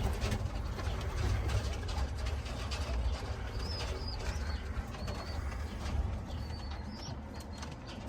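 Domestic pigeons cooing in a loft, with a few short, faint high chirps between about three and seven seconds in, over a low rumble and scattered small clicks.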